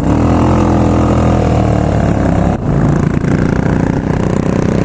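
Single-cylinder motorcycle engine running under way, its pitch easing down slightly, with a brief dip about two and a half seconds in before it carries on steadily. Wind noise runs underneath.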